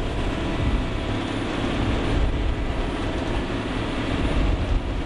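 Jet-drive fishing boat running steadily under load while towing another boat: a loud, even engine rumble mixed with hiss.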